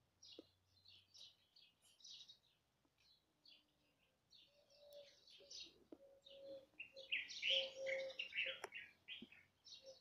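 Small birds chirping in quick, high, repeated calls, busier and louder from about seven to nine seconds in. A faint steady tone runs underneath through the middle.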